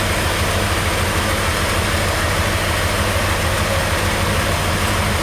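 A large engine idling steadily, with an even low throb.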